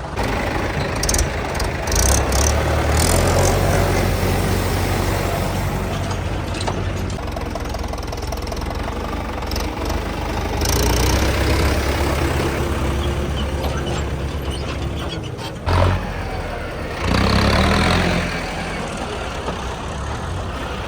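Diesel tractor engines running while a front-loader tractor works, the engine note rising and falling with load. A short sharp burst comes near the end, followed by a louder stretch of about a second.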